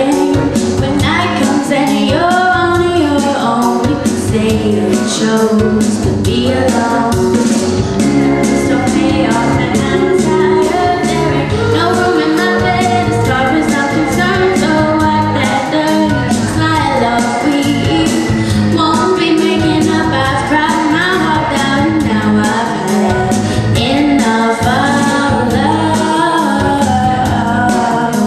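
A woman singing a pop song over an accompaniment with a steady beat.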